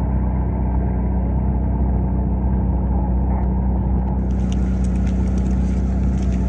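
A sports car's engine idling with a steady low drone. About four seconds in, a hiss with scattered ticks comes in on top.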